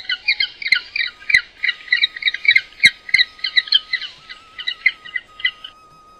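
A bird calling in a rapid run of short, repeated calls, about four to five a second, which stops shortly before the end.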